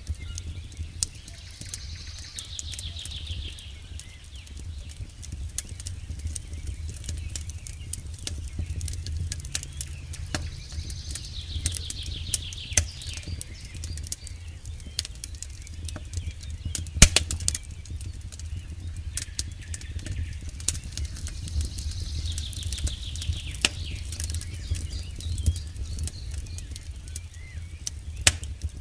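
Campfire crackling with scattered sharp pops, one louder pop a little past the middle, over a steady low rumble. Three times, about ten seconds apart, a falling, rattling trill from a night bird or other animal.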